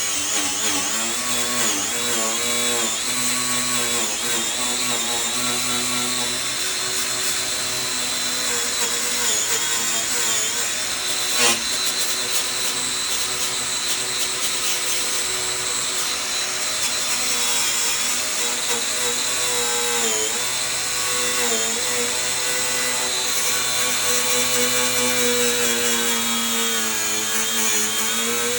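A high-speed power tool running continuously with a steady whine whose pitch wavers and dips now and then as it is worked under load. One sharp click comes about eleven seconds in.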